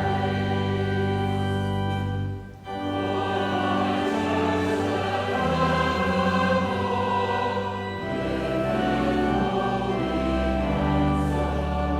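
Many voices sing a hymn in chorus over sustained accompaniment, in long held chords, with a brief break between phrases about two and a half seconds in.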